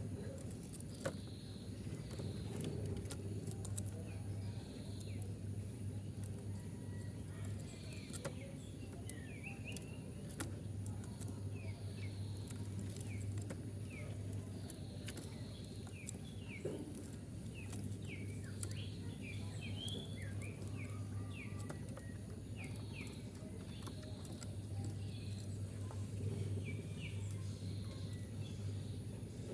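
Small birds chirping in quick, short notes over a low hum that comes and goes every few seconds.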